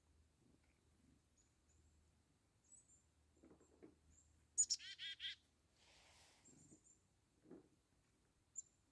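Black-capped chickadee calling: a short high chip-like opening, then a few harsher buzzy notes, about halfway through, with faint high chip notes scattered before and after.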